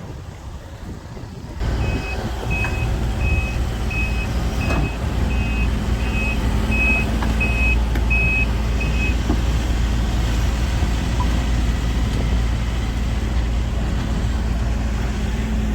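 Heavy earthmoving machine's diesel engine running steadily while its travel alarm beeps about eleven times, evenly spaced, then stops about nine seconds in.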